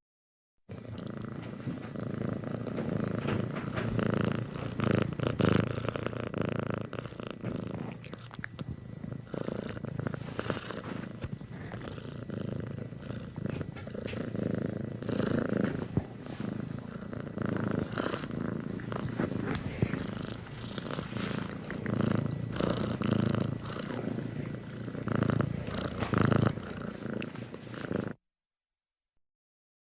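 A domestic cat purring steadily, the purr cutting off abruptly near the end.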